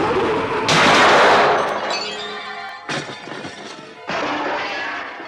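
Film soundtrack: music with a loud crash-like noise about three quarters of a second in, and further sudden noisy hits about three and four seconds in.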